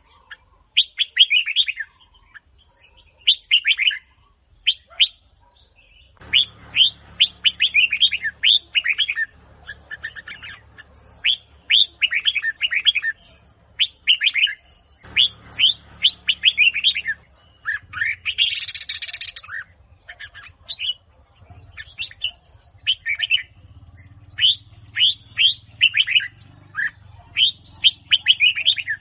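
Red-whiskered bulbul of the Huế strain singing: rapid phrases of bright, quick downward-sweeping whistled notes, one burst after another with only short pauses.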